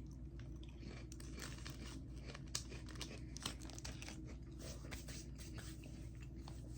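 Faint crinkling and crackling of plastic snack packaging being handled, with two sharper crackles about two and a half and three and a half seconds in.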